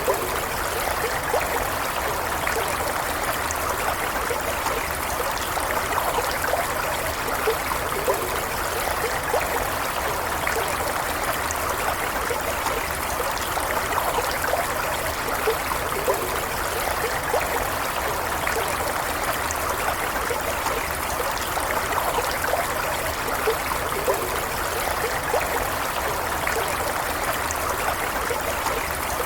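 Stream water running and trickling in a steady, even flow, with small gurgles and splashes scattered through it.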